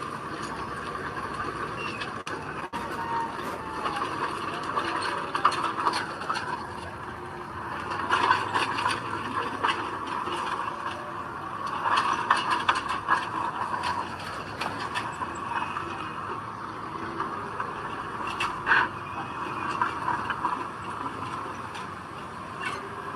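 Heavy earthmoving machinery working: a steady engine sound with irregular metallic clanks and scrapes.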